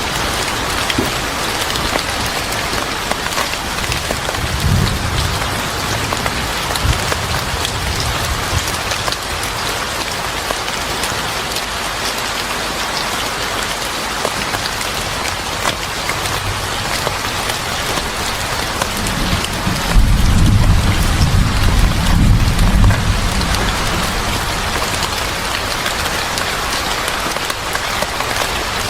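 Steady heavy rain with low rolls of thunder: a faint one about five seconds in and a louder one that lasts a few seconds about twenty seconds in.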